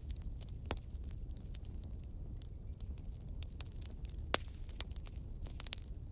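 Wood campfire crackling, with irregular sharp pops and a quick cluster of snaps near the end, over a steady low rumble. A faint brief high whistle comes about two seconds in.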